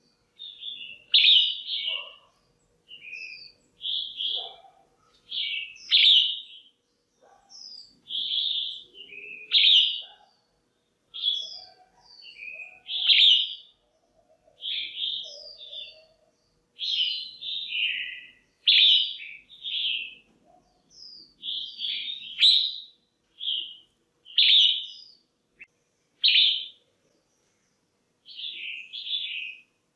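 Red-whiskered bulbul, a female by the recording's account, calling over and over: short, bright chirping phrases, about one every second or so, with brief pauses between them.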